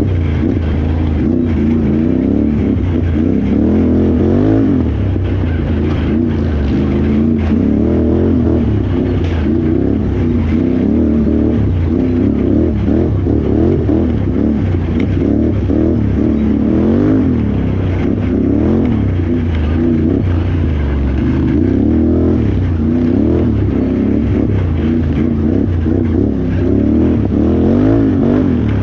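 Can-Am Renegade XXC 1000R ATV's V-twin engine under race load off-road, its revs rising and falling over and over as the throttle is worked, with occasional knocks.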